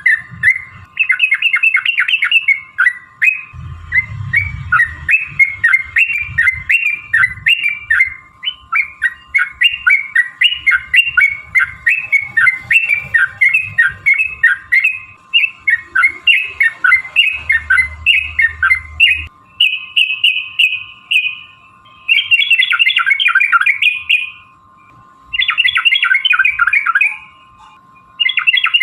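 Yellow-vented bulbul singing a long, rapid run of chattering notes, then several shorter bursts near the end.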